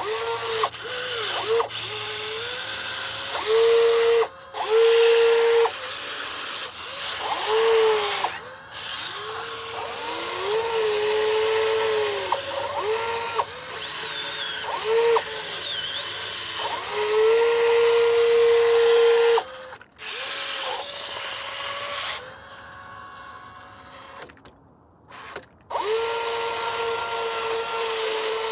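Small electric motors of radio-controlled model construction machines whining in repeated bursts, starting and stopping every second or two, the pitch sagging and recovering as they take load.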